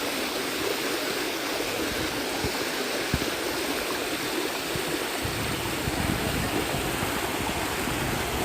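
Waterfall rushing steadily, several falls of water pouring close by. A deeper low rumble joins about five seconds in.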